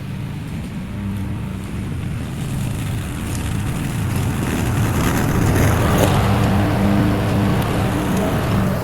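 Lawn mower engine running steadily while cutting tall grass on a second, lower pass, growing louder toward the middle.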